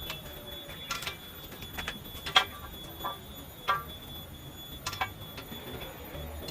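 Irregular metallic knocks, about six in all, each ringing briefly: a metal tool striking steel while the power hammer is being taken apart. The loudest knock comes about two and a half seconds in.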